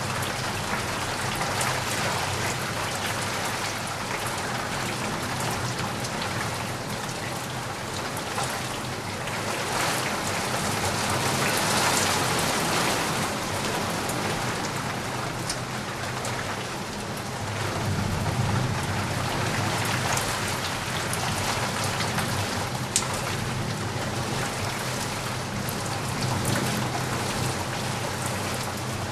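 Steady rain falling, with fine drop ticks throughout and a low rumble of distant thunder that swells and fades a few times.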